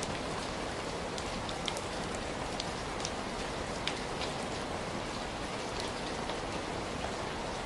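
Heavy rain falling steadily, with scattered individual drops landing close by as small, sharp high ticks.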